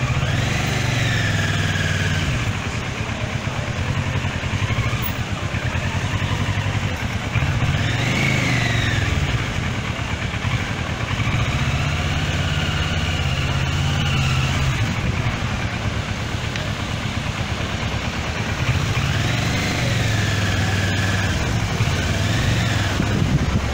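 Kawasaki Versys 650 parallel-twin engine running as the motorcycle rides slowly through traffic. Its revs rise and fall four or five times with throttle changes, under steady road and wind noise.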